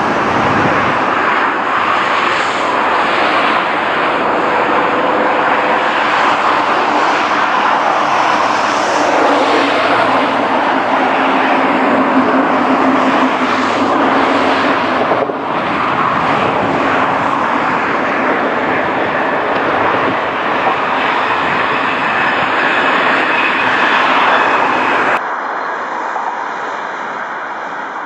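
VIRM double-deck electric train running through, a loud steady rushing noise with a faint low hum partway through. About 25 seconds in the sound cuts abruptly to a duller, fading rumble.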